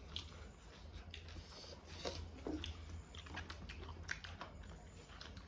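Close-up mouth sounds of a person eating egg curry with rice: chewing, biting and a few crunches, with scattered small wet clicks.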